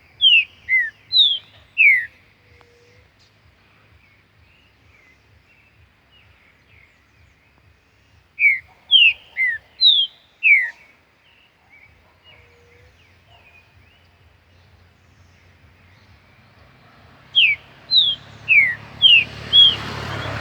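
Green-winged saltator (trinca-ferro) singing: three phrases of five or six loud whistled notes, each note falling in pitch, with the phrases about eight seconds apart. A rushing noise builds up over the last two seconds.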